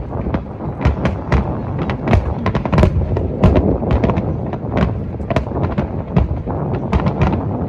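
Large aerial fireworks display in a dense barrage: many shell bursts and crackles, several a second, over a continuous low booming rumble.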